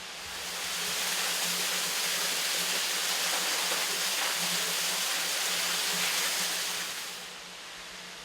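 Rushing water: an even hiss that swells in within the first second, holds steady, and fades out about seven seconds in.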